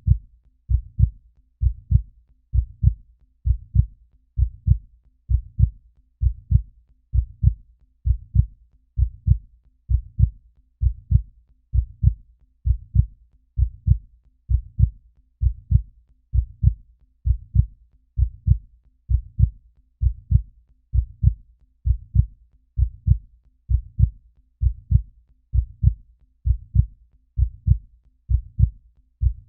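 Heartbeat-like low thumps in a steady, even rhythm, a little faster than one a second.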